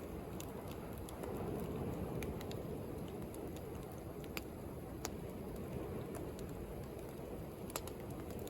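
Wood bonfire crackling, with scattered sharp pops and snaps over a steady low wash of sea waves.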